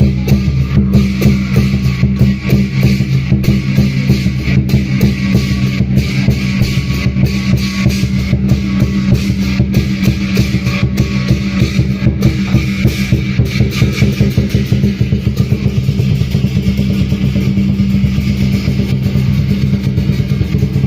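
Loud music driven by fast, dense drumming with a steady crashing hiss of cymbals.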